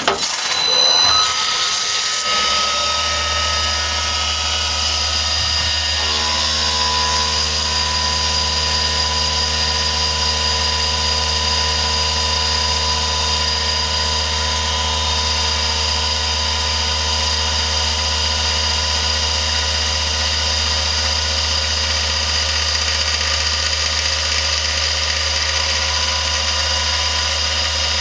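A benchtop mini milling machine's spindle starts up and runs steadily at about 4,500 RPM with a fly cutter, taking a dry facing cut 1.5 inches wide and 0.020 inch deep. The whine settles within about two seconds. About six seconds in the tone changes, as the cut gets going.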